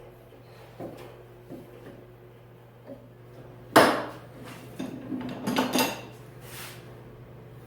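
Hard objects being handled on a workbench: a few light knocks, then one sharp clack about four seconds in, which is the loudest sound. A flurry of clattering knocks follows about a second later.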